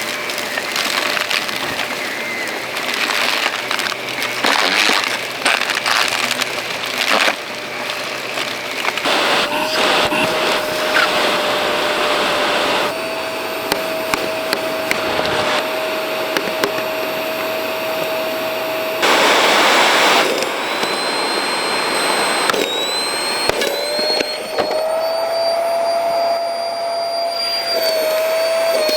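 Shark Rotator XL upright vacuum cleaner running: a steady motor whine over rushing air, with scattered clicks and knocks. The whine shifts pitch several times and breaks off briefly past the middle during a louder rush of noise, then picks up again and rises.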